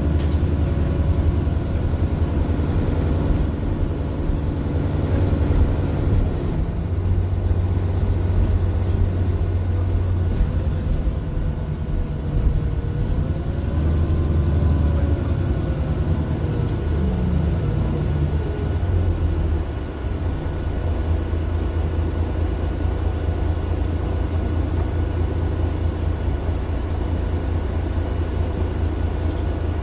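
Mercedes-Benz Citaro LE city bus's Daimler OM 457 hLA six-cylinder diesel running, a steady deep rumble, with a faint gliding whine about halfway through.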